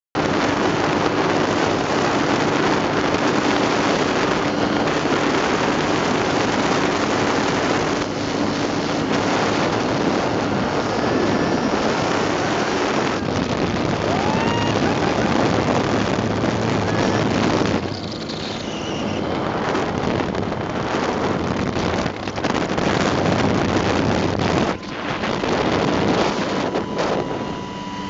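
An ultralight airplane's engine runs steadily while heavy wind rushes over the microphone in flight.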